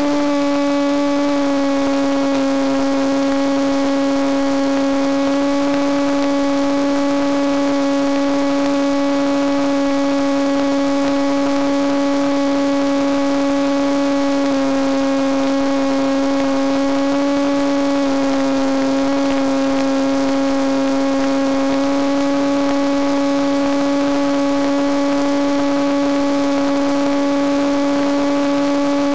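Electric motor and propeller of a Penguin FPV model airplane in flight: a steady, loud hum with a strong pitch and overtones, dipping slightly in pitch about a second in and a few times after the middle.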